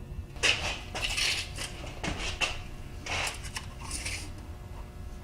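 Metal parts clinking and rattling against each other as they are handled, in a run of short clatters over about four seconds.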